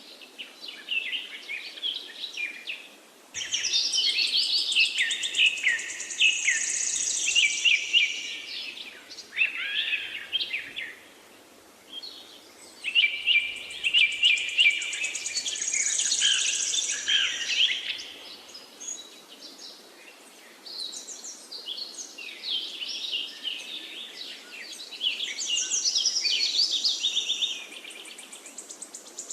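Several songbirds chirping and trilling at once, a busy chorus of overlapping high calls that swells and eases off, with brief lulls about a third of the way in and again past the middle, over a faint steady background hiss.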